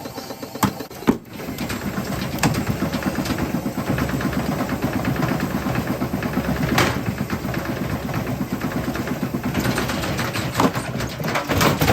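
LG washing machine running with loose objects thrown into its drum: a fast, steady rattle over the machine's running noise, broken by several loud bangs as things strike the drum.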